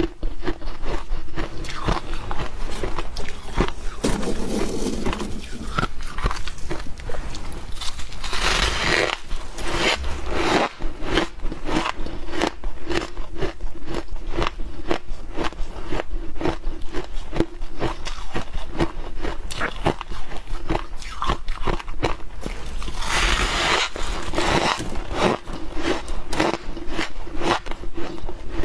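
Humidifier ice being bitten and chewed: a dense run of crisp crunches, with two louder spells of crunching, one about eight seconds in and one about twenty-three seconds in.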